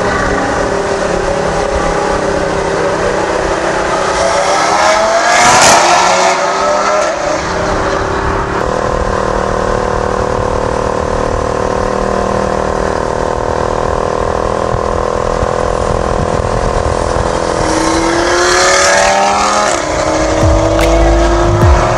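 Audi RS3's turbocharged five-cylinder engine accelerating hard, rising in pitch about five seconds in and again near the end, with a steady drone between.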